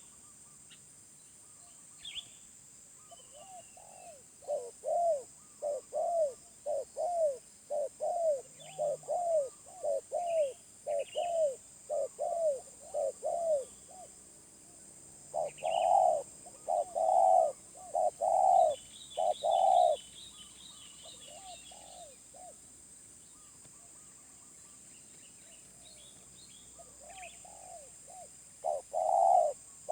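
Wild spotted dove cooing in long runs of quick coos, about two a second. A few louder, fuller coos come midway, and another run starts near the end. Small birds chirp now and then over a steady high-pitched hiss.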